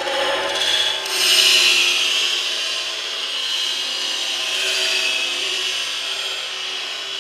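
Jenga Quake's motorised base shaking, rattling the tower of plastic blocks in a steady buzzing rattle that swells a little about a second in.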